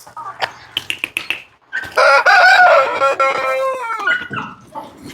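Rooster crowing once: one long, loud call that holds steady and then falls away at the end. A few short clicks come before it.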